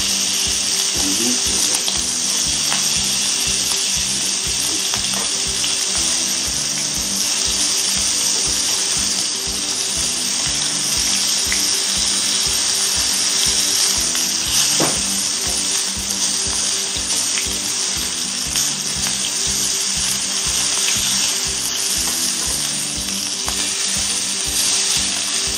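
Duck breasts sizzling steadily in rendered fat in a hot frying pan, over background music with a steady beat.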